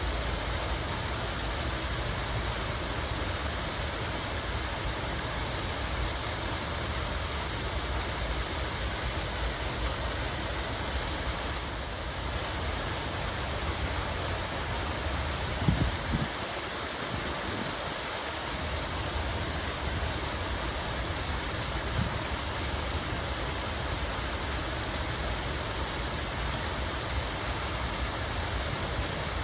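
Water running and splashing steadily in a park fountain or cascade, an even rushing sound. A couple of brief low bumps about halfway through.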